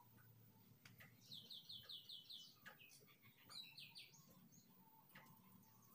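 Near silence with faint bird chirping in the background: a quick run of six or seven repeated high chirps a little over a second in, then a shorter run of chirps a couple of seconds later.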